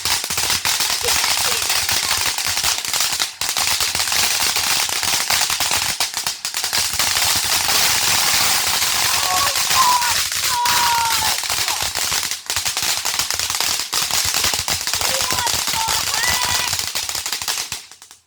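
A long string of firecrackers going off in a loud, dense, unbroken run of rapid pops and bangs, like machine-gun fire, stopping suddenly near the end.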